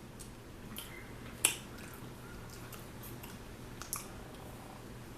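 A person eating air-fried chicken wings close to the microphone: quiet chewing with a few sharp mouth clicks, the loudest about a second and a half in.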